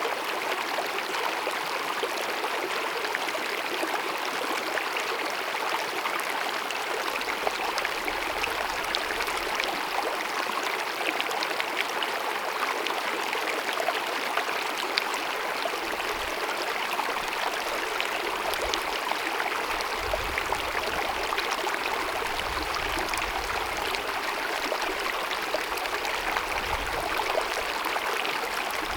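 Small glacier-fed mountain meadow stream cascading and babbling: a steady rush of running water flecked with small splashes throughout.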